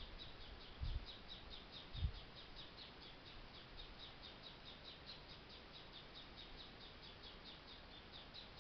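A bird calling in a fast, steady run of short high chirps, about four a second. Two dull low thumps come about one and two seconds in.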